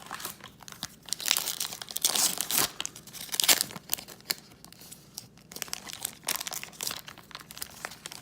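A trading card pack wrapper being torn open and crinkled by hand, in irregular rustling bursts that are loudest in the first half, with lighter rustling of the wrapper and cards after.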